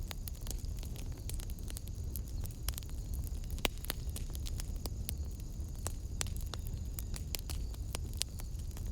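Wood fire burning in a fireplace: a steady low rumble of flames with irregular crackles and pops, one sharper pop a little past halfway.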